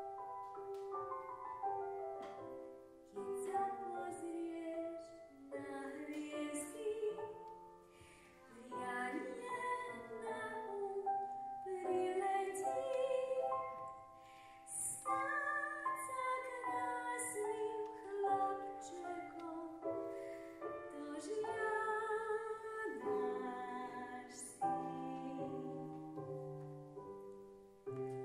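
Music: a woman singing a slow melody in a classical, operatic style over piano.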